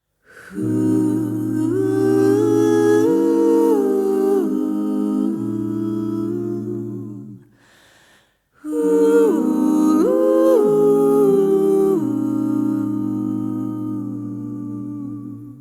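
An a cappella vocal ensemble singing a wordless introduction, holding and moving through sustained chords over a low bass line. There are two long phrases with a short break between them, about halfway through.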